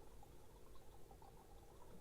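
Faint garden ambience, near silence, with scattered faint short chirps from small birds.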